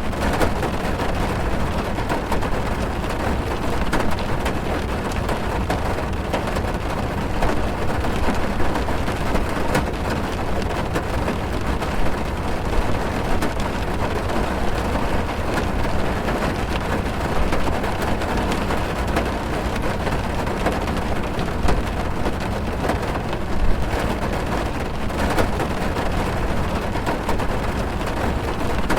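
Heavy rain drumming on a car's roof and windows, heard from inside the car: a steady, dense patter of individual drop hits over a low rumble, unchanging throughout.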